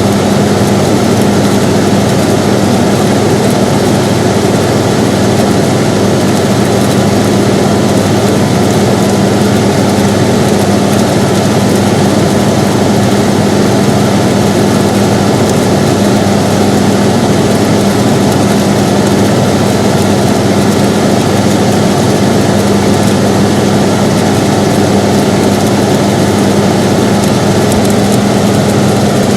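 Air conditioner running steadily: a constant whoosh of fan noise with a steady low hum from the compressor or motor.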